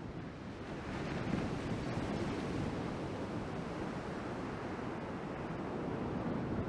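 Ocean surf and rushing water mixed with wind buffeting an action camera's microphone: a steady noisy rush that grows a little louder about a second in.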